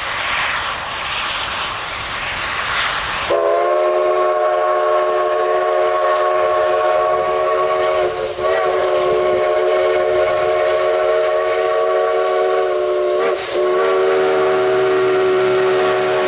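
A former Denver & Rio Grande Western narrow-gauge steam locomotive's whistle. After a rushing hiss, about three seconds in, it sounds a chord of several tones at once and holds it as one long, loud blast, dipping briefly twice along the way.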